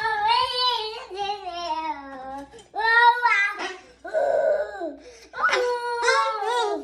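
Cat meowing: four long, drawn-out meows, the first and longest falling slowly in pitch.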